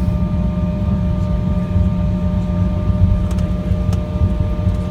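Airliner cabin noise during landing: a steady low rumble with a steady engine whine over it, heard from inside the cabin.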